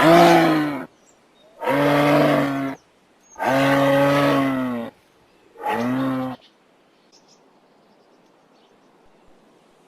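Moose calling: four drawn-out, low, moo-like calls separated by short pauses, the third the longest, then quiet.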